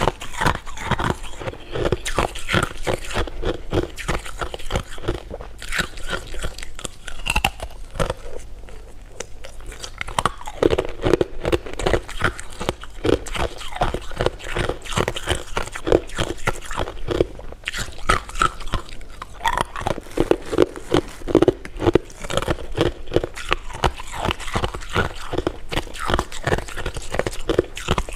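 Close-miked crunching and chewing of hard candy: dense, continuous crackly bites with no pauses.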